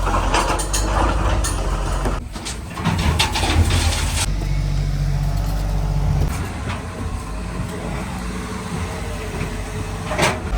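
Heavy diesel engine running steadily, with a stretch of clatter and knocks about two to four seconds in.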